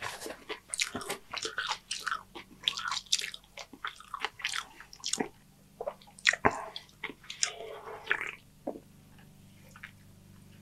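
Close-miked chewing of a mouthful of Doritos nachos: crisp crunches and wet mouth sounds, thinning out and stopping about eight and a half seconds in.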